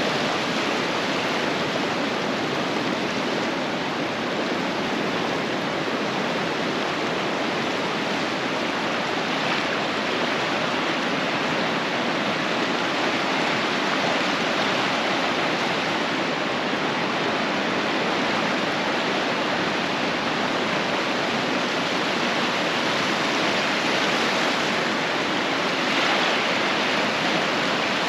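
Steady rush of ocean surf breaking on a beach, swelling slightly near the end.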